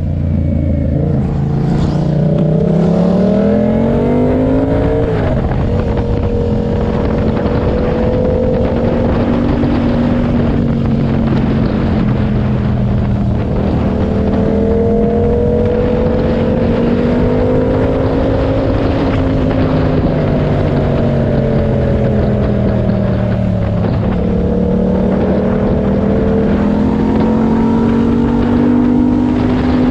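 A 2017 Yamaha MT-07's 689 cc parallel-twin engine through an SC-Project exhaust with its dB killer fitted, heard on board at riding speed. The revs climb over the first five seconds, drop with a gear change, then hold at a cruise that rises and falls gently. Wind rushes over the microphone.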